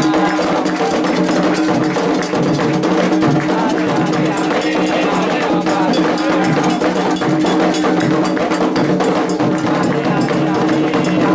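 Candomblé ritual music: atabaque hand drums and an agogô bell playing a fast, dense rhythm over steady held tones.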